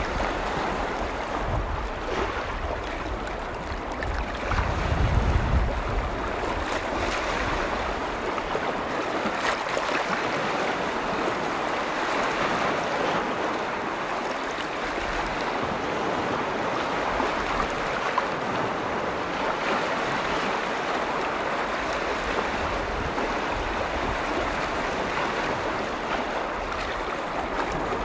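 Lake waves washing continuously against the shore, a steady rushing wash. Wind buffets the microphone with a low rumble around four to six seconds in.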